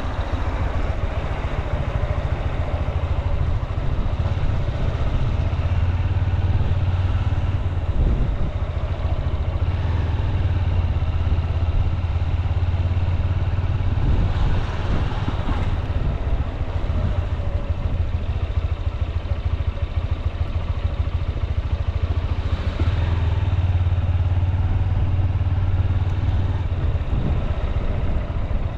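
Honda CB200X's single-cylinder engine running at an easy riding pace, its low engine note rising and falling with the throttle, over steady wind and road noise.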